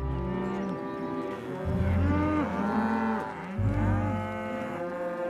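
Cartoon cows mooing: several long, low moos, one after another.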